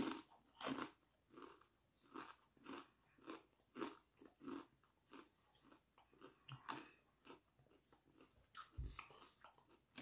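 Faint chewing of a kettle-cooked potato chip: a steady run of soft crunches, about two a second.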